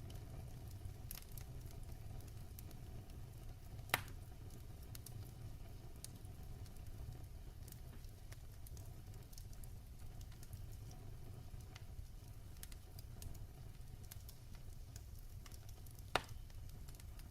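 Fire crackling in a fireplace: a low steady rumble of flames with scattered small crackles and two sharper pops, one about four seconds in and one near the end.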